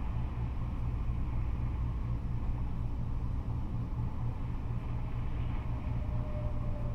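Steady low rumble of freeway traffic, cars and trucks going by, with a faint tone sliding slowly down in pitch near the end as a vehicle passes.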